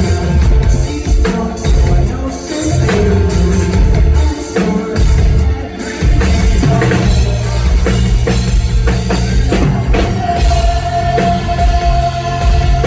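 Rock band playing live and loud: a pounding drum kit and heavy low end under a rock song, with some singing. About ten seconds in, a steady high note is held to the end.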